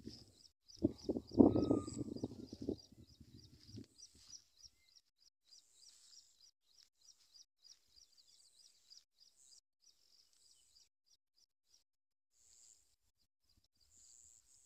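A small bird calling in a fast series of short, high chirps, about four or five a second, that thins out and stops past the middle, with a few higher chirps near the end. Early on a louder burst of rustling and handling noise lasts about three seconds.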